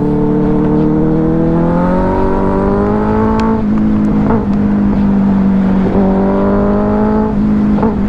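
Benelli 600i inline-four motorcycle engine pulling hard under acceleration, its pitch climbing steadily and dropping at about three and a half seconds and again near the end as it shifts up a gear, over wind rush.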